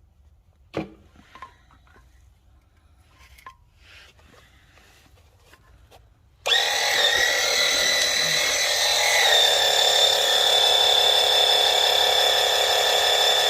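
A few light knocks and clicks, then, about six and a half seconds in, a motor-driven pump pumping gear oil into the gearbox starts suddenly and runs with a loud, steady whine. Its pitch drops slightly a few seconds after starting.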